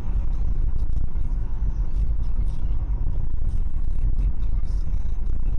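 A car on the move, heard through a dashcam: a steady low rumble of engine and road noise.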